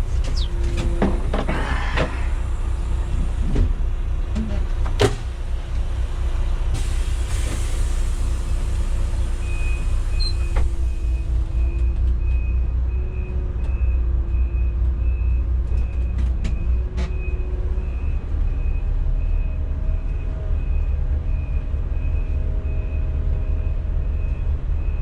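Intercity coach's diesel engine idling with a steady low rumble, with a few clicks and a short hiss of air in the first seconds. From about ten seconds in, an electronic beep repeats a little faster than once a second.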